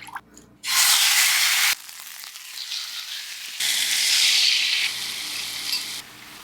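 Chicken thigh sizzling in a frying pan, in short edited cuts: a loud sizzle starts about half a second in and cuts off abruptly a second later, a quieter crackle follows, then a second loud sizzle runs from about the middle until shortly before the end.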